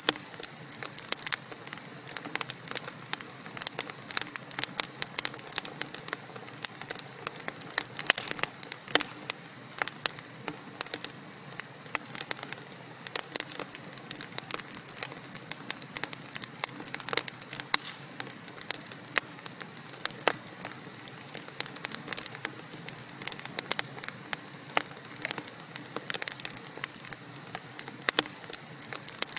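Wood logs burning in a fireplace, crackling and popping irregularly over a steady soft hiss.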